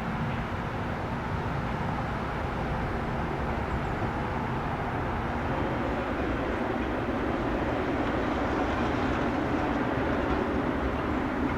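Boeing 777-200F's twin GE90 jet engines during its landing: a steady rumble that grows a little louder in the second half.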